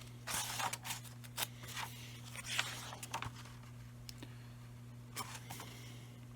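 Soft rustling and scraping of a Bible being handled and its pages turned, clustered in the first half with a couple more near the end. A faint steady low hum runs underneath.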